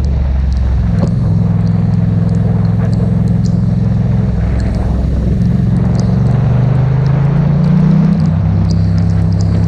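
Yamaha MT-07's parallel-twin engine running under way. Its pitch climbs steadily from about two-thirds of the way in, then drops suddenly near the end.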